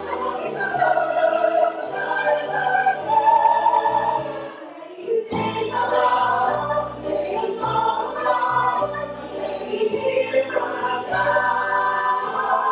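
Stage cast singing together in chorus over a low sustained accompaniment, with a short break in the singing about five seconds in.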